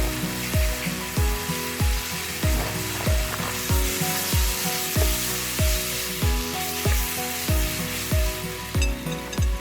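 Steak sizzling on a campfire grill, under background music with a steady drum beat of about two beats a second.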